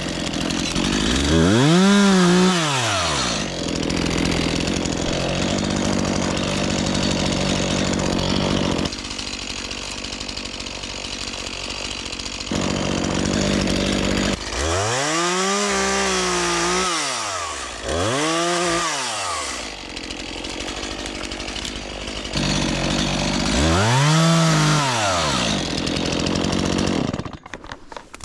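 Gas chainsaw revving up and falling back several times, running steadily between the revs, then dropping away just before the end.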